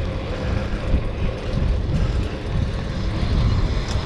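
Low, uneven rumble of wind and road noise while riding a fixed-gear bicycle.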